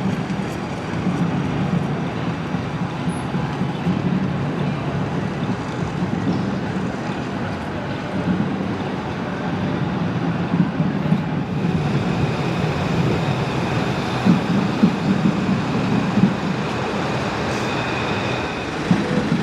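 Police vans and other road vehicles driving past in a slow convoy: steady engine running and tyre and traffic noise, with a brief high squeal near the end.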